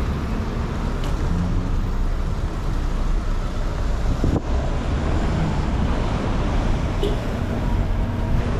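Busy city street traffic: a steady rumble and hiss of cars driving past.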